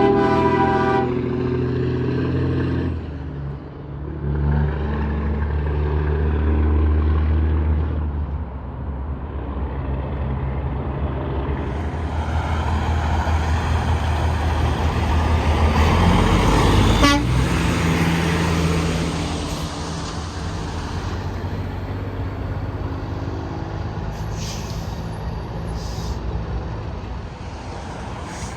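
A truck horn sounding with several pitches at once and cutting off about a second in, followed by tractor-trailers passing on the interstate. Their engine drone and tyre noise swell to the loudest pass about two-thirds of the way through, then ease off.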